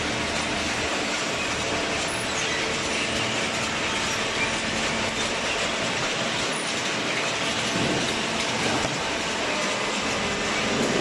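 Machinery running with a steady mechanical clatter and hiss.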